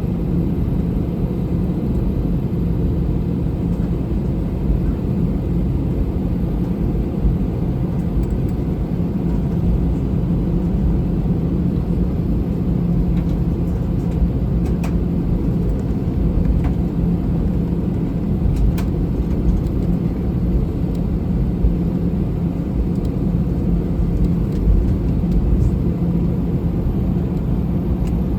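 Steady low drone inside the cabin of an Airbus A321 on the ground, with a constant hum and a few faint clicks.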